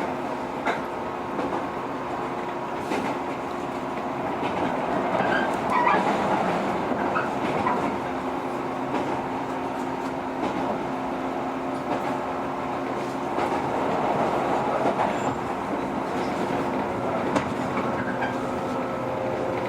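Running sound inside a JR 115 series electric train: a steady hum of traction motors and gears over the rumble of the wheels, with the wheels clicking over rail joints now and then.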